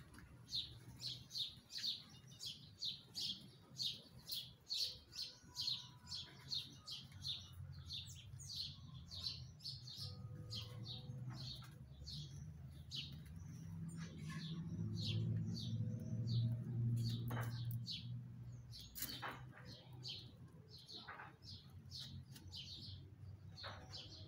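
A small bird chirping over and over, short high chirps about three a second at first, then more spaced out. A low hum swells up in the middle and fades again.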